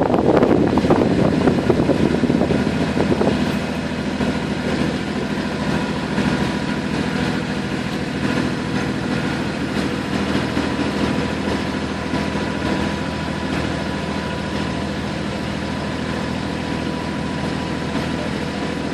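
Small water taxi's engine running steadily, with water and wind noise, louder for the first few seconds and then settling to an even drone.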